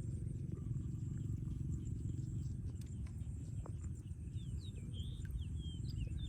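A low, steady rumble, with a few short, high chirping calls in the last couple of seconds.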